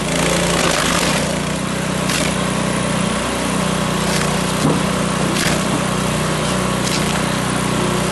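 Small engine running steadily at constant speed under a machine's working noise, with a few sharp clicks at irregular moments.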